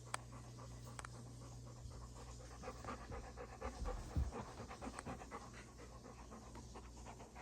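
Chocolate Labrador retriever panting in quick, even breaths, with a low thud about four seconds in.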